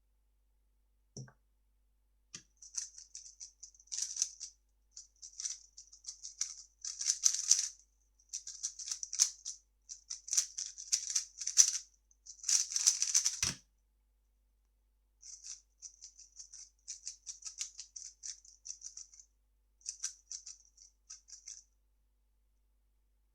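A 3x3 speedcube being turned rapidly: fast runs of light plastic clicks in quick bursts with brief pauses. A soft thump comes about a second in and a stronger one after about twelve seconds, as a solve starts and stops. After a short pause, a quieter stretch of turning follows.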